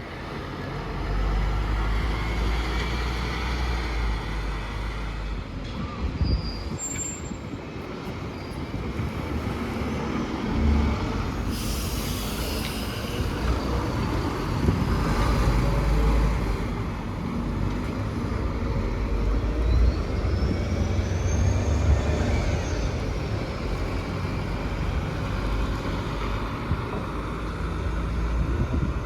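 City bus engine running with a steady low rumble, with a short hiss of air from the brakes about twelve seconds in and a whine that rises and falls later on.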